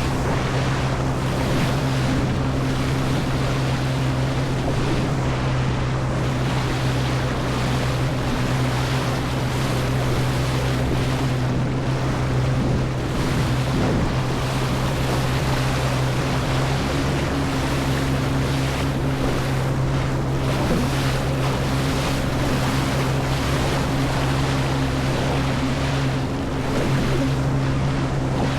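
Jet ski engine running at a steady pitch throughout, with water rushing and wind buffeting the microphone.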